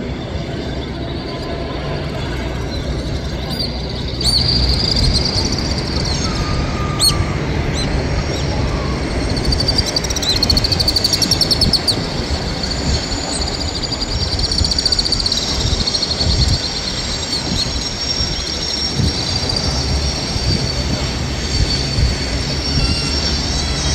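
Passenger coaches of a train rolling past with a steady low rumble, their wheels squealing in high thin tones that come in about four seconds in and swell again near the middle.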